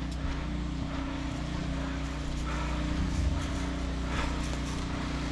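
Steady low mechanical hum with a few faint scattered knocks.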